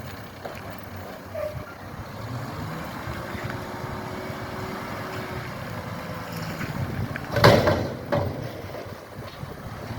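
Mack GFL front-loader garbage truck's diesel engine running steadily, with wind buffeting the microphone. A loud bang about seven and a half seconds in, then a smaller one just after.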